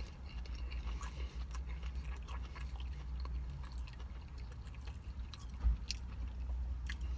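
A man chewing a bite of a White Castle ghost pepper cheese slider: soft, irregular mouth clicks over a steady low rumble.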